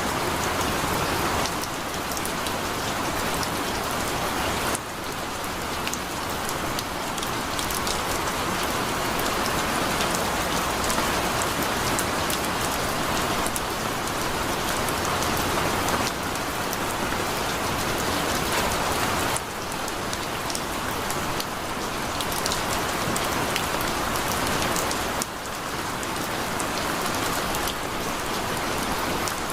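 Heavy rain falling steadily, a dense even hiss with scattered sharp drop ticks; the overall level steps down abruptly a few times.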